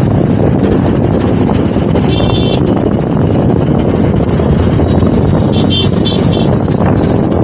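Motorcycle engine running and tyre and road noise while riding, with wind buffeting the microphone. Brief high-pitched tones sound once about two seconds in and three times in quick succession around six seconds.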